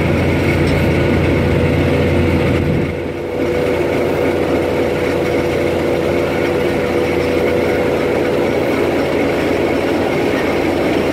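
Moving diesel train: a steady engine drone with rail running noise, dipping briefly about three seconds in.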